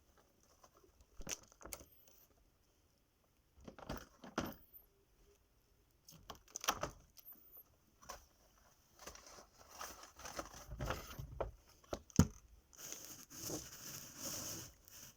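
Fancy rat eating a piece of watermelon: irregular small bites, clicks and rustling, with a louder sharp click about twelve seconds in and a longer rustle near the end.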